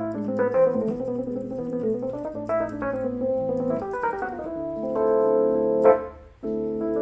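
Casio CT-S1 portable keyboard played with a piano-type voice: a line of struck notes over bass notes, then a held chord about five seconds in that stops abruptly just before six seconds, a short gap, and the playing picks up again.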